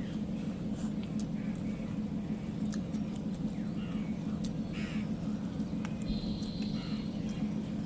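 Steady low hum, with faint bird chirps and scattered small clicks over it.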